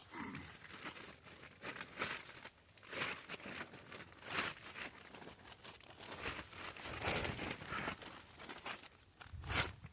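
Irregular crinkling and rustling in uneven bursts, a few each second.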